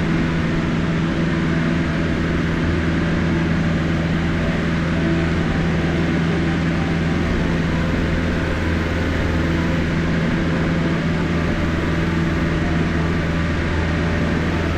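Cessna 152's four-cylinder Lycoming O-235 engine and propeller at full power in the climb after takeoff, heard from inside the cabin as a steady, even drone.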